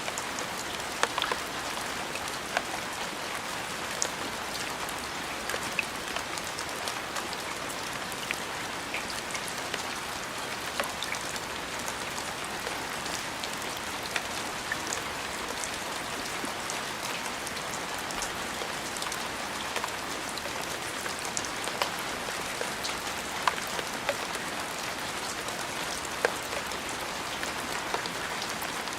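Steady rain falling on a surface, an even hiss with many distinct drops ticking and pattering close by.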